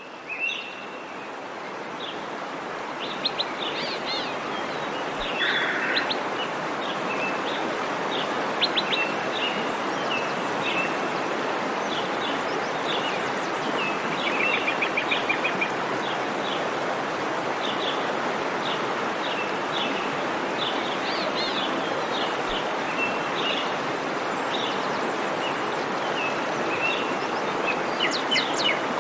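Steady rush of water from a waterfall, with many short bird chirps and calls repeating over it.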